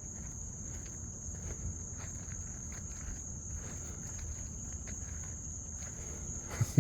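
Night insects calling in a steady, unbroken high-pitched chorus, with faint scuffing footsteps on the trail. A brief louder sound comes right at the end.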